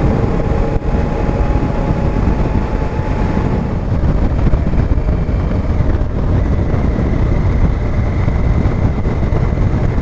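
Heavy wind rushing over the microphone on a moving motorcycle, with the Honda Africa Twin's parallel-twin engine running underneath. A faint steady whine comes in about six seconds in.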